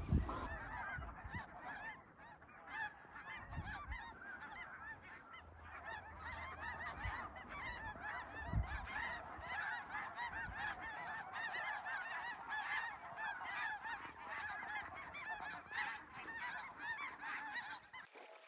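Snow goose calls: many overlapping, high-pitched honks from a large flock, a continuous chatter that cuts off abruptly just before the end.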